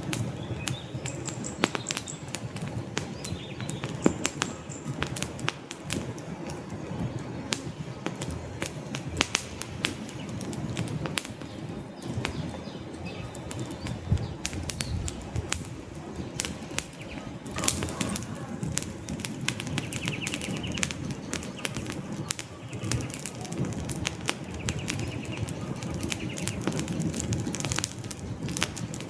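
Wood fire burning in a fireplace, crackling with frequent sharp pops and snaps over a steady low rush of flames.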